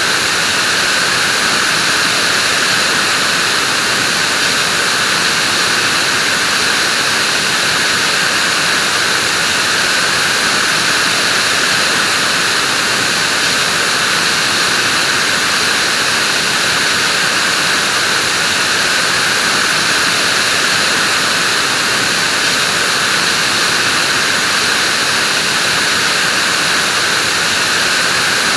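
Vacuum cleaner running steadily, a constant high-pitched whooshing hiss with no change in speed.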